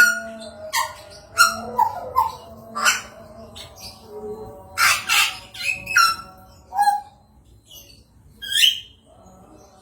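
Songbird calls as used in a masteran tutoring recording: an irregular series of short, harsh squawks and chirps, loudest around five seconds in, with a lull shortly before the last call near the end.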